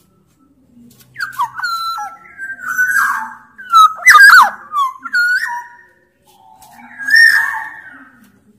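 Black-naped oriole (kepodang) singing: loud fluid whistled notes and slurred glides mixed with harsher rasping calls, beginning about a second in, with a short pause and then a further phrase near the end.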